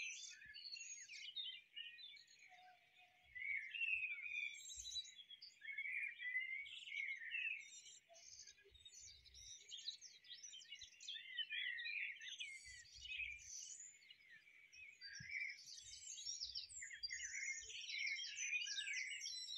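Songbirds chirping and trilling, several at once, in a continuous chorus of short, high calls.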